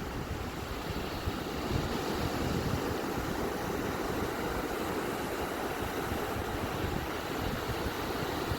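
Ocean waves washing onto a beach: a steady, low rushing noise with no distinct breaks between waves.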